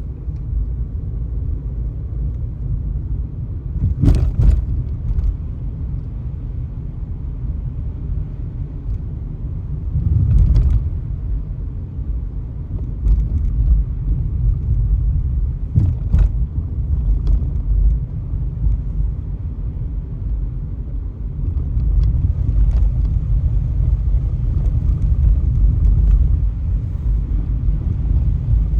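Car driving on the road, heard from inside the cabin as a steady low rumble of tyres and engine. A few short knocks from bumps break through, the loudest about four seconds in, with others around ten and sixteen seconds.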